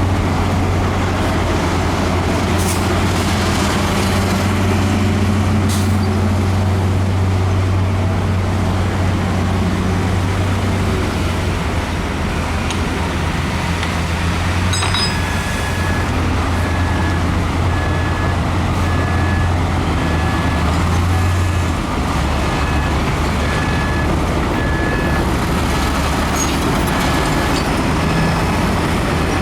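Heavy diesel earthmoving machinery, a Komatsu bulldozer and dump trucks, running with a steady low drone and a few metallic clanks. About halfway in a reversing alarm starts beeping about once a second, on one pitch, and keeps going nearly to the end.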